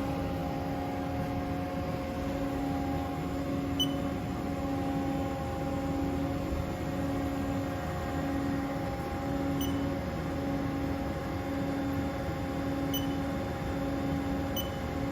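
Steady hum of a Haas SL15 CNC lathe standing powered up, with four short high beeps from its control-panel keys as they are pressed.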